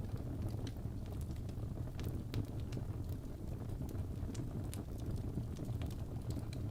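Wood fire crackling in a fireplace: a steady low rumble with scattered sharp pops and snaps at irregular moments.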